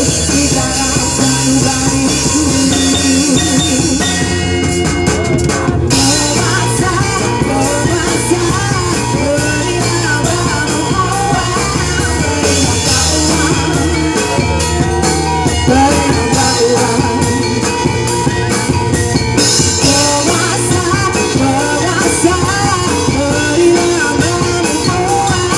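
Live band playing an ethnic-style rock arrangement, with drum kit and a melody line that bends in pitch. The high cymbal sound drops out briefly about four seconds in, then returns.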